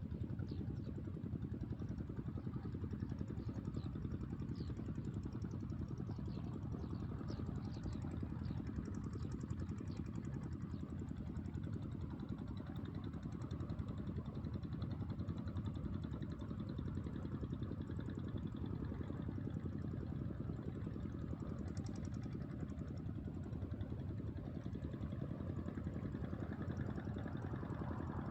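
A small engine running steadily at idle, with an even rapid pulse.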